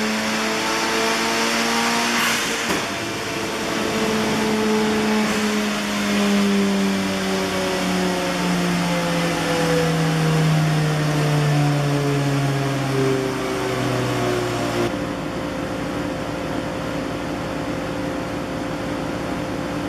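Mazda RX-7 FD's twin-turbo 13B rotary engine running on a chassis dyno, its pitch falling slowly and steadily for about fourteen seconds, with a brief hissing flare a couple of seconds in. Then it gives way abruptly to a steady, quieter hum.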